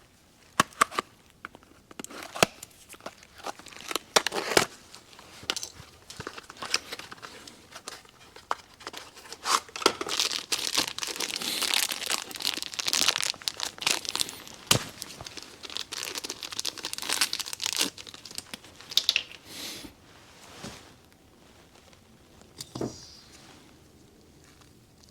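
Plastic packaging crinkling and tearing, most densely in the middle stretch, with sharp clicks and knocks of small parts being handled.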